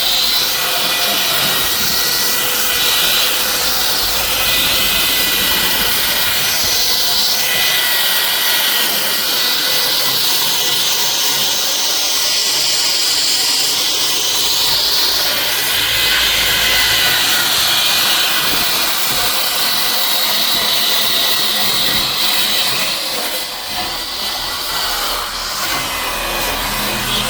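Wood-processing machine running loudly and steadily, a strong hiss with a high whine over it, the hiss swelling and easing as it works; it drops a little near the end.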